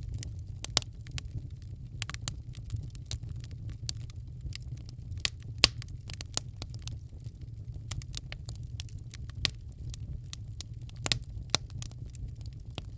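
Wood fire in a fireplace crackling, with irregular snaps and pops over a steady low rumble; the sharpest pop comes about five and a half seconds in.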